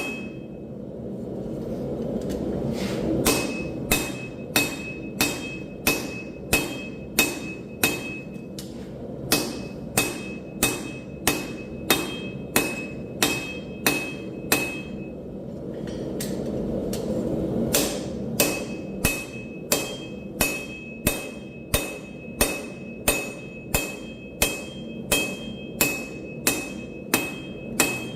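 Hammer forging hot steel on an anvil: regular blows about one and a half a second, each with a short ringing anvil tone. The hammering stops twice for a few seconds, near the start and about halfway, while a steady rushing noise underneath swells.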